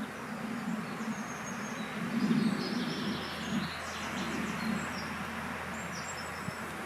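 Wind blowing, a steady rush with a low gusty rumble that swells about two seconds in, while small birds chirp and twitter in short high notes.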